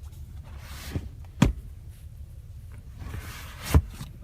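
Rear centre armrest cup holder of a car being worked by hand: twice a short sliding rub ends in a sharp plastic click.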